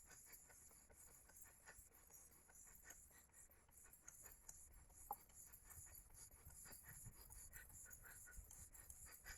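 Faint, quick scratching of a wire being sawn back and forth across a green log, heating the wire by friction to light a match.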